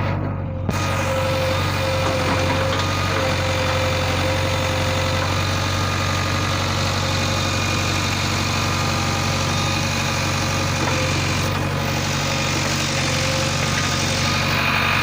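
Diesel engines of a JCB backhoe loader and a tractor running steadily at work.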